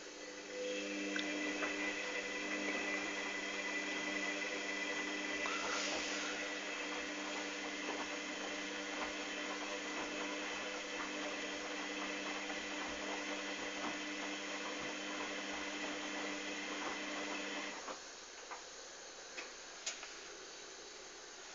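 Hoover Dynamic DYN 8144 D washing machine running mid-cycle: a steady motor hum with a whine, among faint clicks and swishes, that starts just after the beginning and cuts off suddenly about 18 seconds in.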